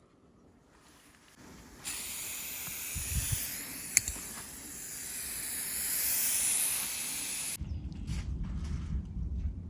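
A steady hiss runs for several seconds, with a single sharp click about four seconds in. It cuts off abruptly into a low, rumbling noise.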